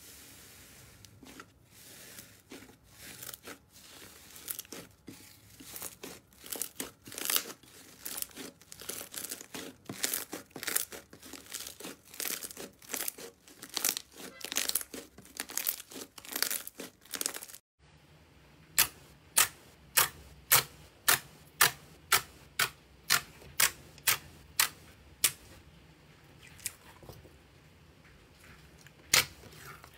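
Slime being worked by hand with a crackly, crunchy sound of many small irregular clicks. After a sudden cut, sharp single clicks follow at a steady pace of about one every 0.6 s, then thin out.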